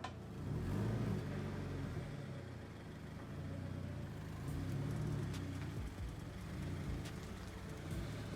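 A car engine running, a low hum that swells about a second in and again around five seconds.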